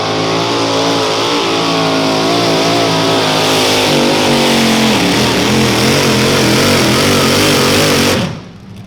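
Mini modified pulling tractor's engine running loud at high revs under load during a pull, its pitch wavering up and down and dropping a little about four seconds in. The sound cuts off abruptly near the end.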